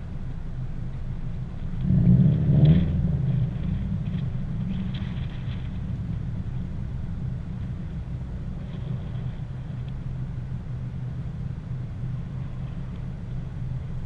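Low, steady rumble of wind noise and road noise from a moving car. About two seconds in, a car engine briefly revs up, rising in pitch.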